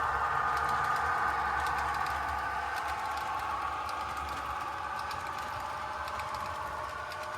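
HO scale model coal train running on the track: a steady whine from the locomotive's motor and gearing, with light clicks of the wheels over rail joints, slowly getting a little quieter.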